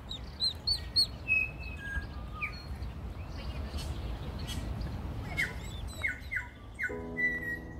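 Birds chirping and peeping over a steady low outdoor rumble: a quick run of short high chirps in the first second, scattered calls after it, then four falling peeps about five to seven seconds in. Soft music with held notes comes in near the end.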